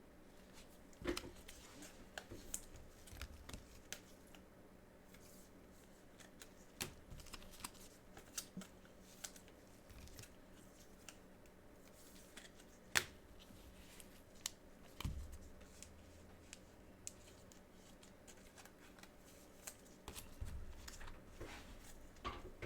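Trading cards being handled: cards slid and flipped with scattered small clicks and rustles, a few dull bumps on the table, and one sharper click about 13 seconds in.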